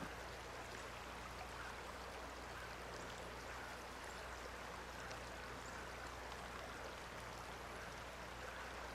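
Faint, steady rush of Chehalis River floodwater flowing, with a low steady hum underneath.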